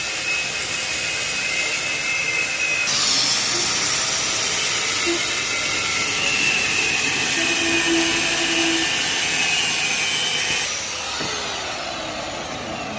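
A power tool running steadily with a high-pitched whine. About three seconds in it turns harsher and higher, and about eleven seconds in it drops back.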